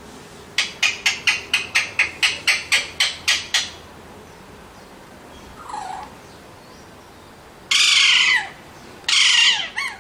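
Alexandrine parakeet calling: a quick run of about a dozen short, sharp calls, about four a second, then a single softer call. Near the end come two loud, harsh screeches.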